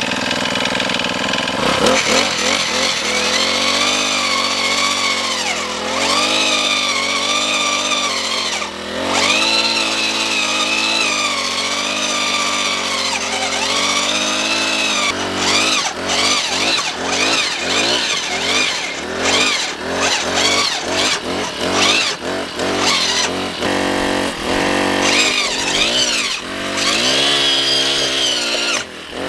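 Small gas engine of a post-hole auger with an 8-inch bit, drilling into rocky ground. Its pitch sags and recovers as the bit loads up. From about halfway on the revving turns quick and choppy, broken by short knocks as the bit hits rock.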